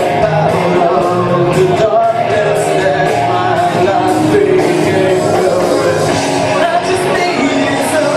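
A singer with a rock band playing live, with cymbal strokes recurring through the music.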